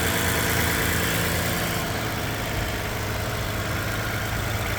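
2017 Toyota Highlander engine idling steadily with the hood open, running smoothly and quietly.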